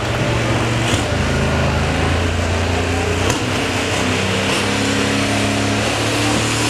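Super stock pulling tractor's engine running loud, its pitch stepping up and down several times as the throttle is worked.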